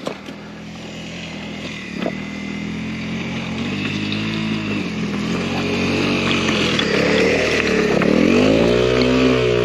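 Single-cylinder trail motorcycle engine running and growing steadily louder. Near the end its pitch dips and then climbs again as the throttle is eased off and opened back up.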